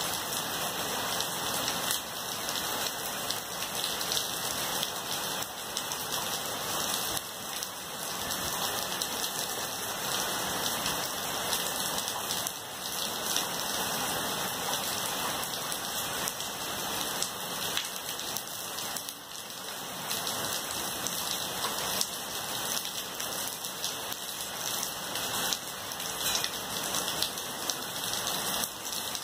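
Steady rain falling on trees, leaves and grass: an even, unbroken hiss of rainfall.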